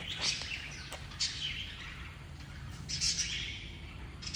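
Birds chirping: several high calls that each sweep downward in pitch, spaced about a second or two apart, over a faint steady low hum.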